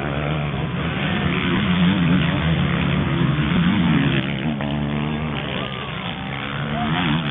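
Several motocross motorcycle engines racing at once, their pitch rising and falling as the riders throttle and shift.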